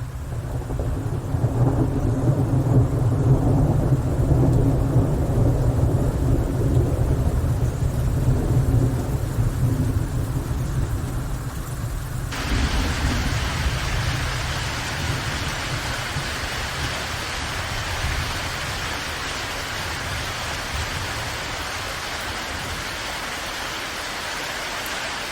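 A long, low rumble of rolling thunder swells over the first half. About halfway through it gives way abruptly to the steady hiss of heavy rain.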